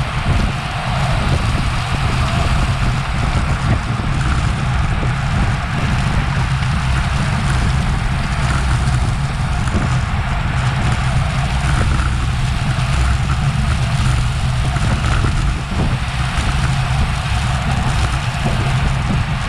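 Steady wind rush and road rumble on a Garmin VIRB action camera's microphone, carried on a road bike riding at race speed.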